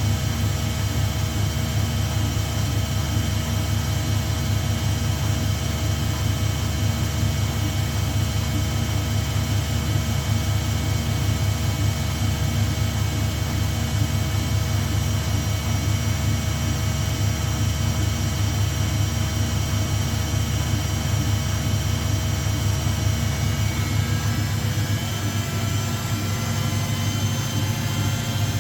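Washing machine spinning at speed: a steady motor whine over a deep hum, its tones shifting slightly near the end.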